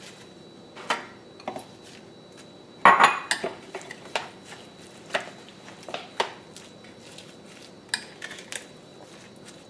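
A utensil clinking and knocking against a bowl as a grinder salad is mixed with lettuce: scattered sharp knocks, with a louder cluster about three seconds in.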